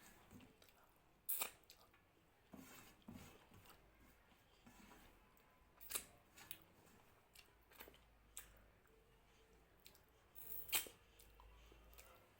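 Quiet eating sounds: a person chewing and handling food, with scattered short clicks and smacks. The loudest come about a second in, midway and near the end.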